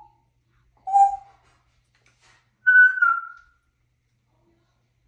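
African grey parrot giving two short whistles: a lower one about a second in, then a higher one a little before the middle that drifts slightly down in pitch.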